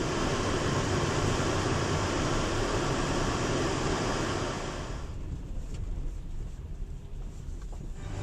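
Steady vehicle road and engine noise, with a hiss that drops away about five seconds in and leaves a quieter low rumble.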